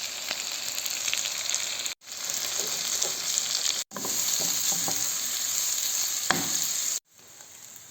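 Chicken and onion sizzling in butter in a frying pan as flour is stirred in, a steady hiss with a few sharp knocks of the stirring utensil against the pan. The sizzle drops quieter near the end.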